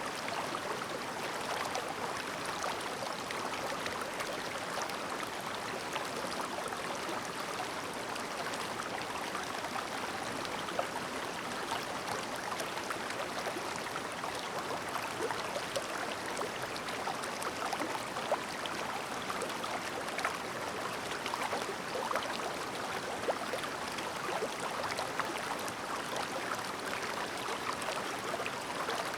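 Clear, shallow river babbling steadily, with many small splashes and gurgles.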